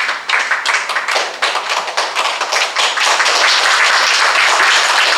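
Audience applauding: separate claps at first that thicken into full, steady applause about three seconds in.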